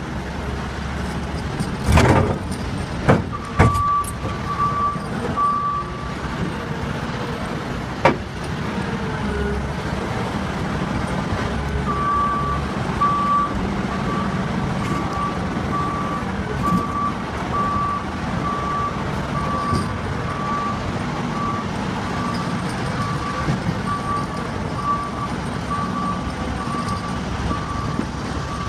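Heavy mining machine's engine running steadily, with a reversing alarm beeping about once a second. A few loud metal bangs come in the first several seconds.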